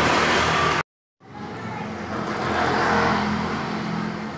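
Motorcycle engine running steadily, cut off by a sudden dropout of about a third of a second, roughly a second in, then running on and swelling slightly midway.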